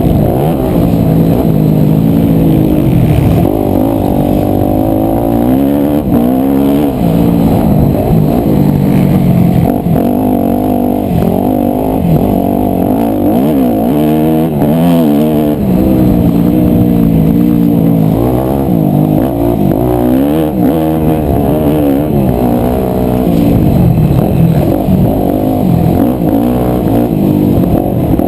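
250cc four-stroke single-cylinder motocross bike engine under hard riding, its pitch climbing and dropping back over and over as the throttle is opened and closed and the gears change.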